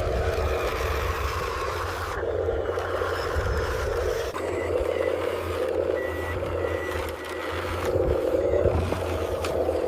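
Radio-controlled construction machine running with a steady mechanical whirr, with a few short high beeps in the middle like a reversing alarm.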